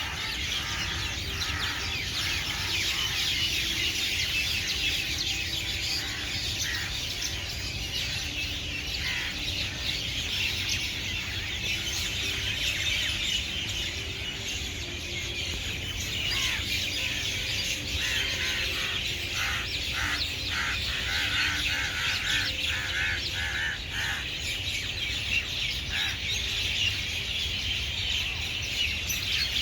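Many small birds chirping at once in a dense, continuous chatter, with one call repeated in a quick series of short notes about two-thirds of the way through.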